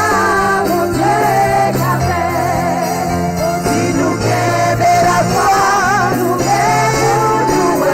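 Gospel worship music: voices singing together over sustained bass notes that change every second or two.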